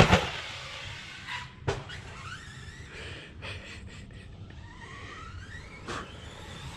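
Electric RC monster truck's brushless motor whining up in pitch as it is throttled, twice, with a couple of sharp knocks from the truck hitting the ground.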